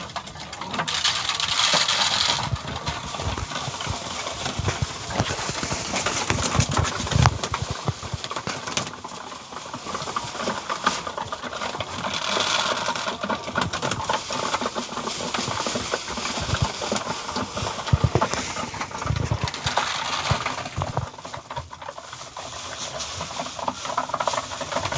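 Pigeons feeding on scattered grain: a dense, irregular stream of small pecking clicks and taps, with rustling from feet and wings now and then.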